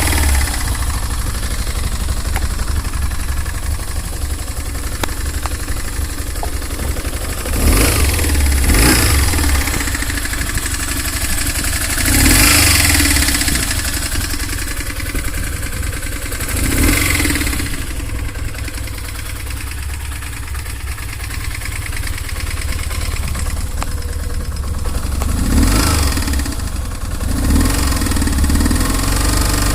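BMW R 1150 GS Adventure's air/oil-cooled boxer-twin engine running with a knock, its throttle blipped up several times between stretches of idle.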